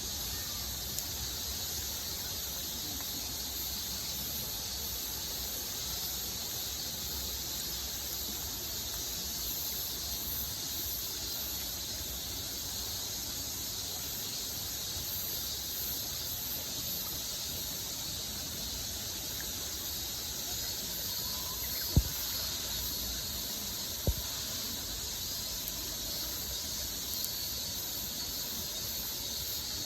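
Steady high hiss of outdoor ambience, with two sharp pops from a wood campfire about two seconds apart late on.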